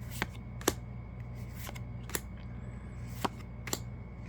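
Yu-Gi-Oh! trading cards being flicked through one at a time by hand, a short sharp snap every half second or so at an uneven pace, over a steady low hum.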